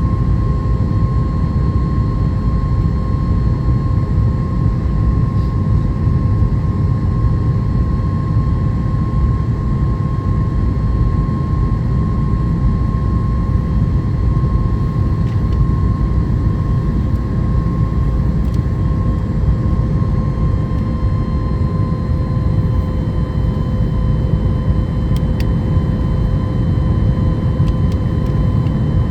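Cabin noise of a Boeing 737 MAX 8 in its climb after takeoff: a steady low rumble of its CFM LEAP-1B engines and airflow, with a constant hum tone over it that dips slightly in pitch about two-thirds of the way through.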